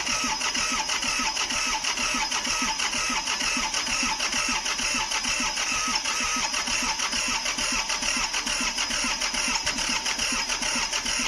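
Starter motor cranking the John Deere 855's three-cylinder diesel engine in a steady, even rhythm without it catching and running; the owner suspects a fuel problem behind the hard start.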